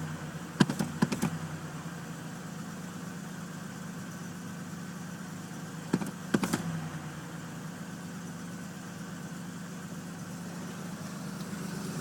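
1981 Buick Electra's carbureted 4.1-litre V6 idling steadily, with a few sharp knocks about a second in and again around six seconds in.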